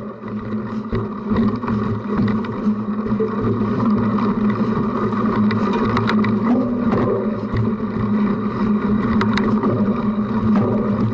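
Cyclocross bike being ridden over rough ground: a steady rumble from the tyres and drivetrain, with sharp rattling clicks from the bike scattered throughout, picked up by a camera mounted on the front of the bike.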